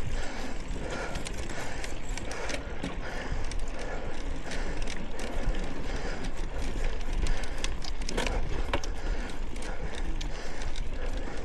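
Bicycle rolling over a bumpy trail, with steady rattling and many short ratchet-like clicks over rushing wind and tyre noise.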